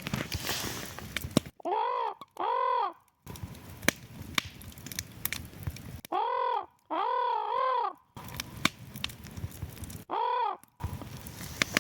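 Raven calling: five hoarse, arched croaks in three groups (two, then two, the last of them longer, then one) over a crackling wood fire.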